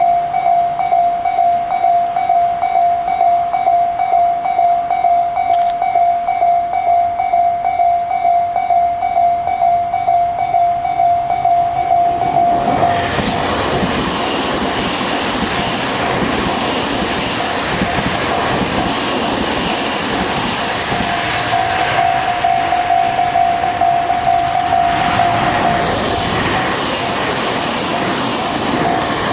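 A level-crossing warning bell dings steadily at about two strikes a second. About halfway through, a Tobu Tojo Line electric train passes and the running noise of its wheels and motors drowns the bell, which shows through again for a few seconds near the end.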